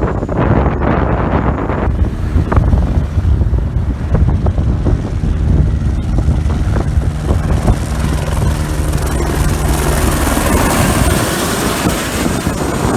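Aircraft engine running with a steady hum, heavily buffeted by wind on the microphone; in the second half a high hiss builds louder.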